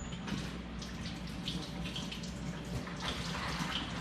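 Water running from a tap and splashing over small soldered metal samples as they are rinsed clean of pickle.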